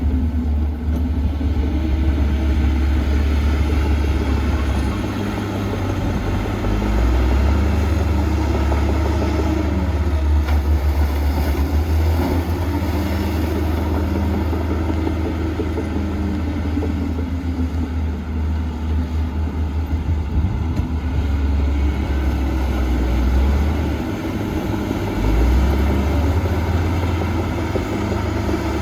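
Diesel engine of heavy earthmoving equipment running continuously, its pitch rising and falling as the machine works, over a heavy low rumble.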